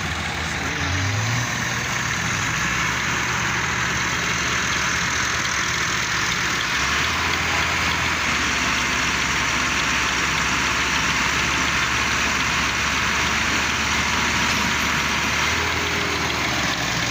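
Tractor diesel engines running steadily together, with a short rise in pitch about a second in.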